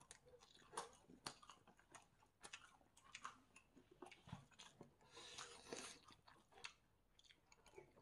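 A person chewing and biting food, in irregular sharp clicks and crunches.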